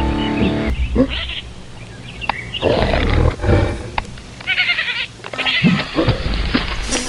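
Music stops under a second in, followed by a run of short, separate animal-like cartoon sound effects with brief gaps between them.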